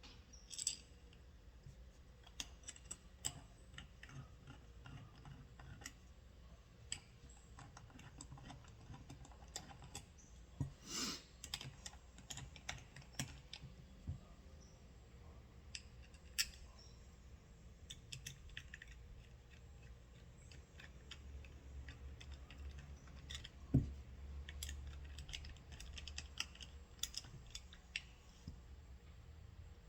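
Scattered light clicks and taps of small metal starter-motor parts being handled and fitted by hand, with a sharper knock about three-quarters of the way through.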